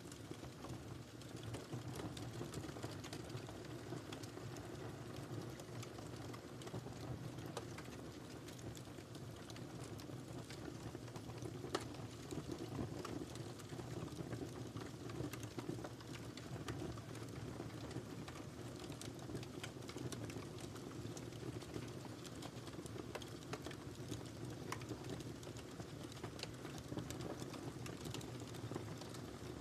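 Wood fire crackling steadily in a fireplace, with many small pops and a sharper pop about twelve seconds in.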